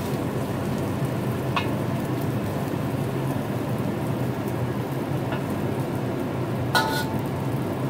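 Scallion omelette sizzling steadily in a wok, fried slowly in a little oil over low heat. A few light clicks of the metal spatula against the wok, the last one near the end ringing briefly.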